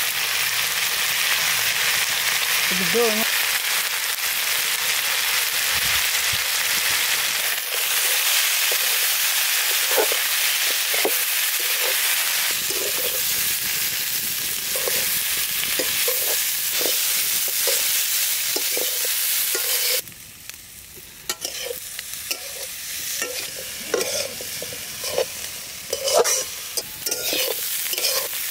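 Diced potatoes and onions sizzling in oil in a kadai, stirred with a metal spatula that scrapes against the pan in repeated short strokes. About two-thirds of the way through the sizzle suddenly drops away, leaving mostly the spatula's scrapes and clinks.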